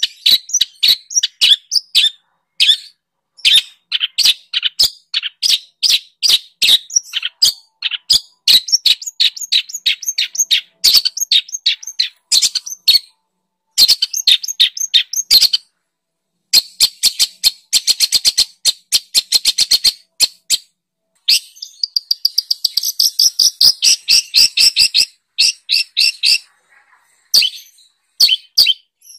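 Songbird song played as masteran tutor material for cage birds: loud phrases of rapid, high chirps broken by short pauses, with a fast even trill about two-thirds of the way in and a scratchy, buzzy phrase after it.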